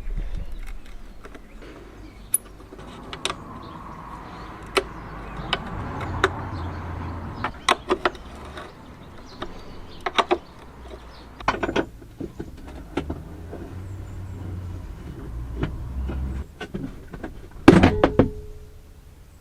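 Hand tools and metal parts being worked on a car's air vent: a scattered run of sharp clicks and taps over scraping and rustling, with the loudest metallic clank near the end that rings briefly.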